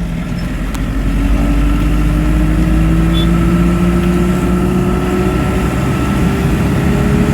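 Car engine and road noise while driving, the engine note rising slowly and steadily as the car gathers speed.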